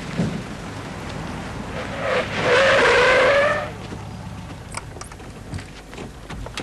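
Car tyres squealing for about a second and a half, a slightly rising screech that starts about two seconds in, over a car's running engine: the car is braking or cornering hard.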